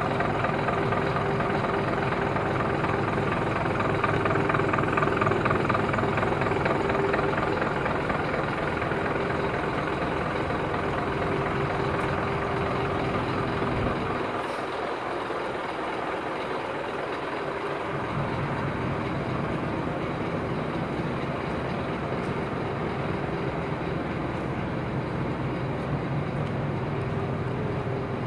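Scania P230 truck's diesel engine running steadily. The deep low rumble drops out for a few seconds about halfway through.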